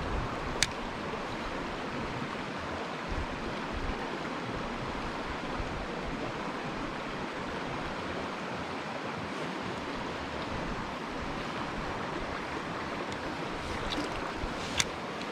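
Mountain stream flowing steadily, an even rush of water. A sharp click sounds about half a second in and another near the end.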